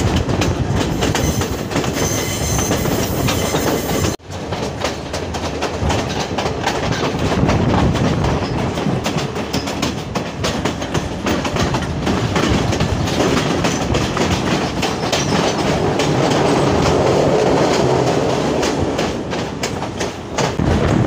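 Passenger train running, heard from aboard: a steady rumble with a dense run of wheel clicks and clacks over the rails. The sound drops out for a moment about four seconds in.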